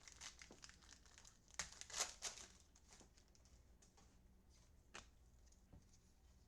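Faint crinkling and rustling of trading card packs and cards being handled, with a few light clicks; the loudest crinkling comes about one and a half to two and a half seconds in.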